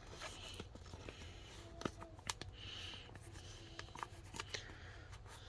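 Faint handling of trading cards: a soft sliding rustle with a few light clicks as cards are flipped and set down.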